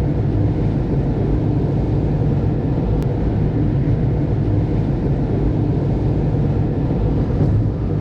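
A diesel BMW E70 X5 driving at a steady speed: a constant low drone of road noise and engine hum.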